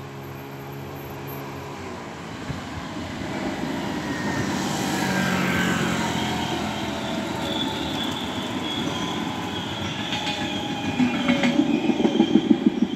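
Yellow-and-blue NS passenger train passing over a level crossing: the noise of wheels and running gear swells as it goes by, with a high wheel squeal. A steady hum stops about two seconds in, and near the end comes a fast run of loud knocks as the last wheels cross the rail joints.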